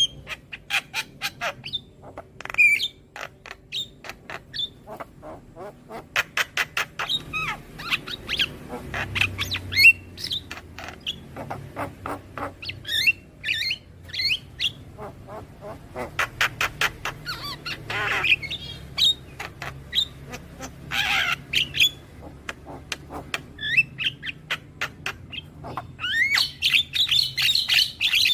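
Javan myna (jalak kebo) calling: a rapid, uneven run of sharp clicking chips and short whistles. Two longer, harsher squawks come about two thirds of the way through, and a dense burst of chattering comes near the end.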